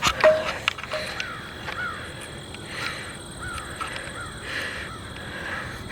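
A bird calling over and over, a series of short caws about half a second apart, with a few light clicks of footsteps near the start.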